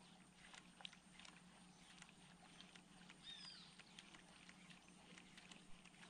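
Near silence of a still lake and forest: one short bird call, a downward-gliding whistle, about three seconds in, over faint scattered ticks and a low steady hum.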